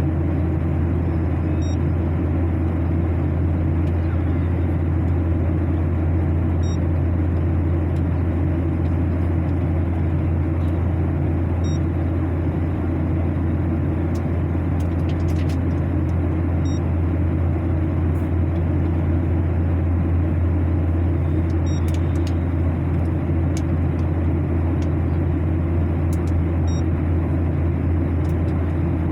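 Steady, loud cabin noise of an airliner in flight, a constant low drone with an even rushing hiss over it. Faint short high beeps come about every five seconds, with a few faint clicks between them.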